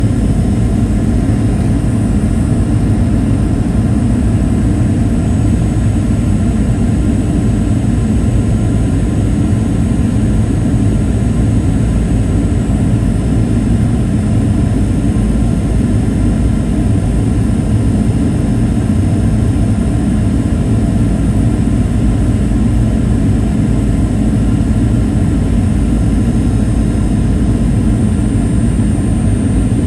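Steady cabin noise inside a Boeing 737-800 in flight: a loud, even, deep rush of airflow and engine noise, with a faint high whine held steady above it.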